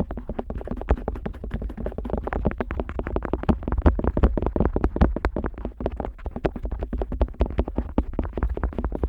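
Otoscope tip rubbing, scraping and tapping over the silicone outer ear of a KU100 dummy-head microphone, heard very close up as a fast, unbroken run of scratchy clicks with a low rumble underneath.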